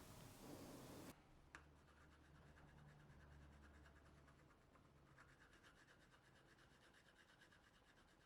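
Near silence, with a faint run of quick, evenly repeated rubbing or scratching strokes and one small click.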